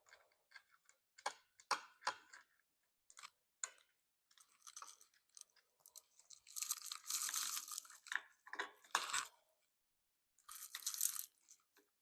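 Scattered small clicks and scrapes, with a longer rasping stretch about halfway through and a shorter one near the end: a handlebar switch housing being fitted and its screws put back in.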